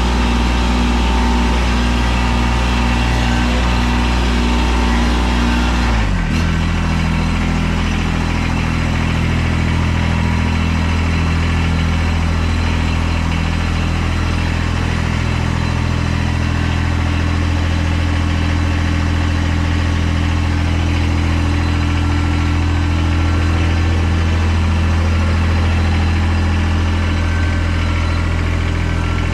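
Tractor engine running steadily; about six seconds in its note drops sharply to a lower speed and then holds steady.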